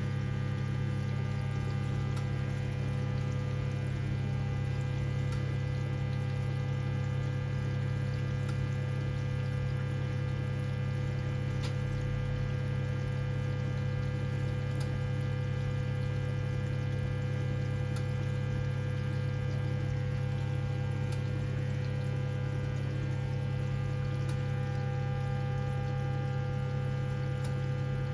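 1978 Siemens WA4600 washing machine running with a steady electric hum and water rushing inside it.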